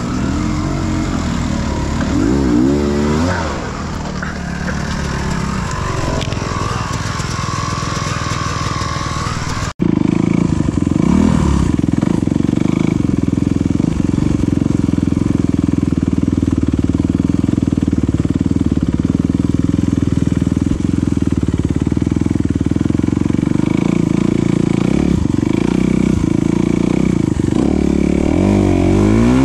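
Off-road enduro motorcycle engine being ridden, its pitch rising and falling with the throttle, then after an abrupt break about ten seconds in running at a steadier, more even speed.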